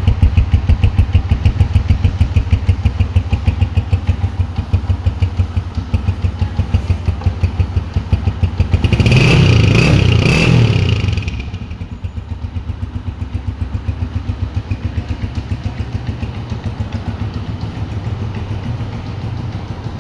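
A 2018/19 Honda engine idling with an even, pulsing beat. About nine seconds in the throttle is blipped once, the revs rise for about two seconds and then drop back to idle.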